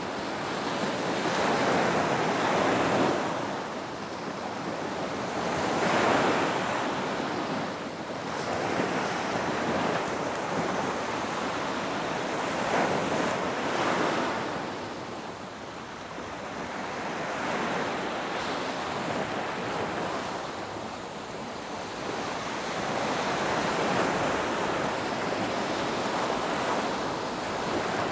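Ocean surf breaking on a beach: a continuous wash of water that swells and eases as successive waves break and run up the shore every few seconds, with some wind noise on the microphone.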